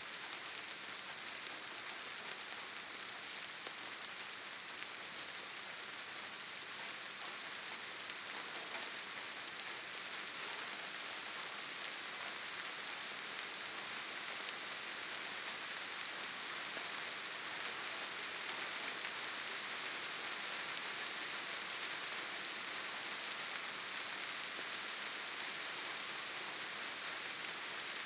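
Steady rainfall: a dense, even hiss of many raindrops falling without letting up.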